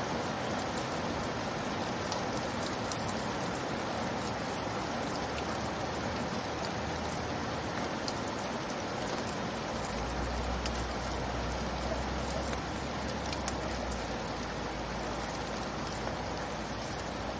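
Steady rain falling, an even hiss with scattered drop ticks. A low rumble sits beneath it for a few seconds about ten seconds in.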